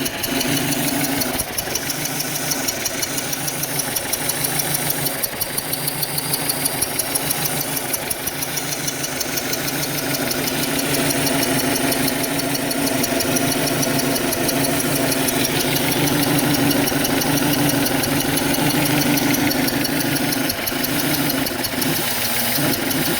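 Audi 1.8T four-cylinder turbo engine idling with an uneven, pulsing beat, the sign of a misfire at idle.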